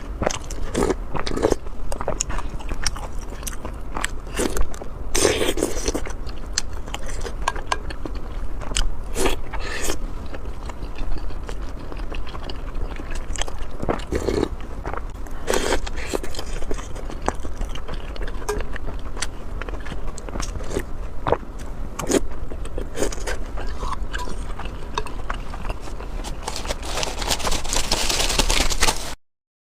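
Close-miked eating sounds: a person chewing and biting food with wet mouth clicks and smacks, in an uneven stream throughout. The sound cuts out for a moment near the end.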